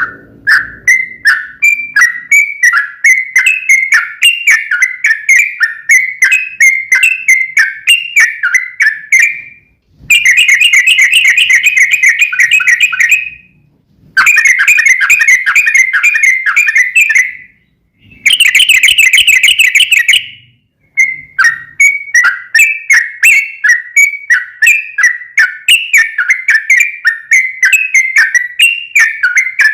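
Yellow-vented bulbul (trucukan) song: a long run of loud, repeated chirpy notes at about two a second. Three rapid, rolling trills of a few seconds each come in the middle, and then the separate notes resume.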